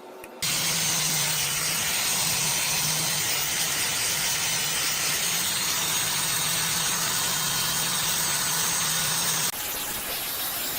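A motor-driven machine running steadily with a loud hiss over a low, even hum; it starts abruptly about half a second in and drops slightly in level near the end.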